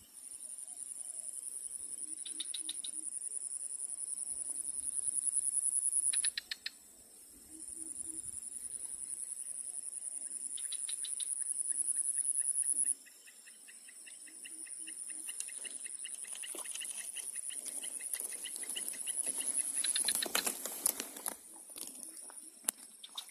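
Insects calling: a high, pulsing buzz that cuts off and starts again twice, with shorter trilled chirps from other insects. Near the end there is a brief, louder burst of noise.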